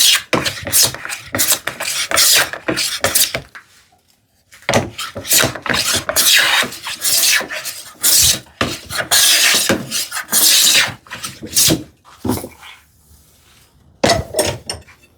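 Hand plane strokes on wood: repeated rasping passes of the iron taking shavings as a board is planed down to a gauge line. A quick run of short strokes, a brief pause about four seconds in, longer strokes until about twelve seconds, then a couple more near the end.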